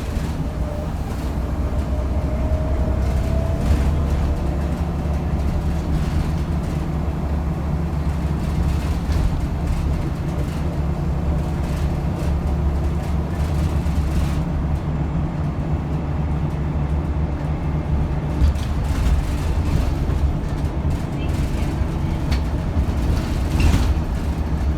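Scania L94UB bus's engine and ZF automatic transmission running under way, heard from inside the cabin as a steady low drone with body rattles and knocks. A faint whine sits above the drone in the first few seconds.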